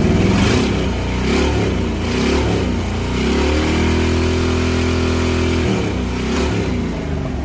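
Small-block Chevy 350 V8 with high-compression forged pistons, a performance camshaft, a Holley double-pumper carburettor and a custom exhaust, being revved. Several quick throttle blips are followed by about two seconds held at raised revs. The revs then drop, it gives one more blip and settles back to idle near the end.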